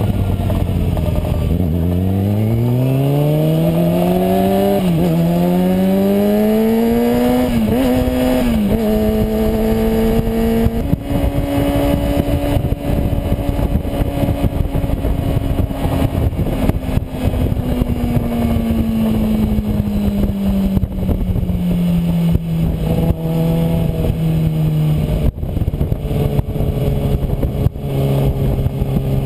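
Kawasaki Ninja ZX-6R inline-four engine accelerating hard, its pitch climbing with brief dips at each upshift, then holding at speed and slowly winding down, over wind rush on the onboard camera.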